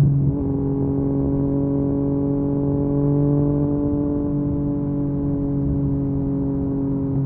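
Yamaha MT-09's three-cylinder engine through an Akrapovic carbon exhaust, ridden on the road. Its note breaks briefly just after the start, then runs at a steady, nearly even pitch.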